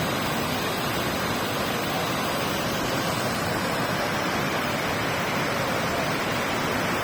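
A tall waterfall, about 180 feet high, pouring down in a steady, dense rushing noise that does not change.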